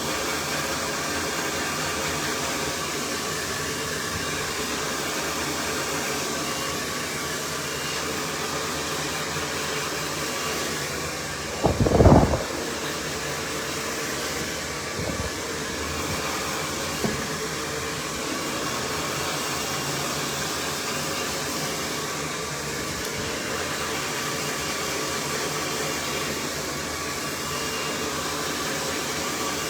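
Cloud 9 hair dryer blowing steadily on high. A brief, louder low thump comes a little before halfway through.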